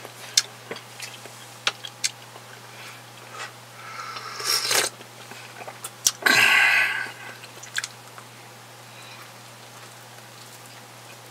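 Close-up eating sounds of a man chewing a sausage sandwich on a buttered bun: wet mouth smacks and small clicks, with two louder, longer mouth sounds a little before and after the middle.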